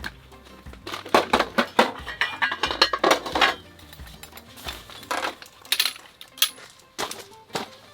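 Irregular clusters of light clinks and clatters from dishes and cutlery being handled.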